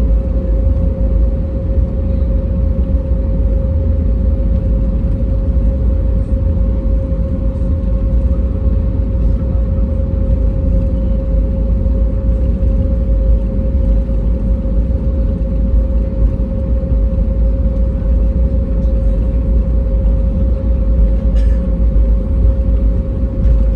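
Airbus A320neo cabin noise in flight: a steady deep rumble of engine and airflow with a constant hum, unchanging throughout.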